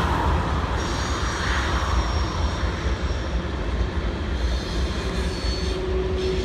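Steady low rumble and hiss of heavy vehicle noise, with a faint steady tone coming in about five seconds in.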